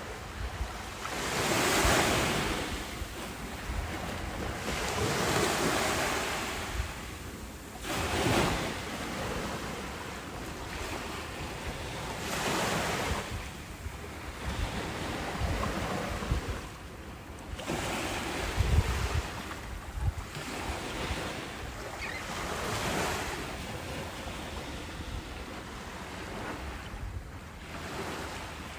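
Ocean waves breaking and washing in, the surf swelling up and falling away every few seconds.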